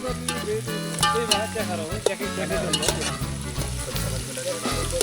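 Food frying and sizzling in a pan over a wood-fired cooking stove, with a steady spitting crackle.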